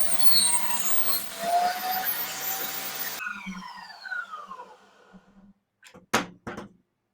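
Table saw running, then switched off, its motor and blade winding down in a falling whine. Three short knocks follow near the end.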